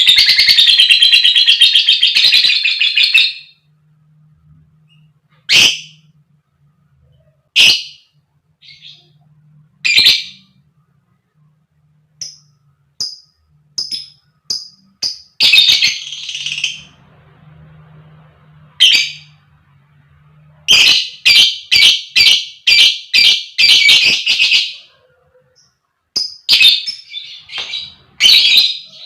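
A lovebird calling. It opens with a long, rapid chattering trill (ngekek) lasting about three seconds, then gives single sharp, shrill chirps a few seconds apart. From about 21 s comes a fast run of loud chirps, around three to four a second, which starts again near the end.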